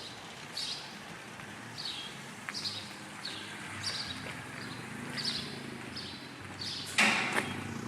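A small bird chirping over and over, short falling chirps about one or two a second. Near the end there is a brief, loud hiss-like burst.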